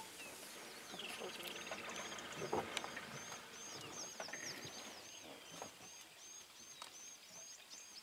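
Faint bush ambience with a bird repeating a short, high chirp over and over, and a brief buzzy trill about a second in.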